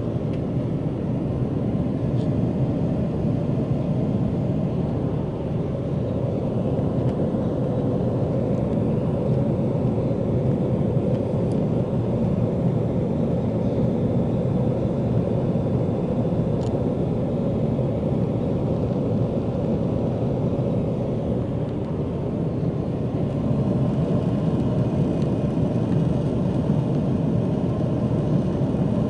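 Steady low drone of a jet airliner's cabin in flight: engine and airflow noise heard from inside the cabin.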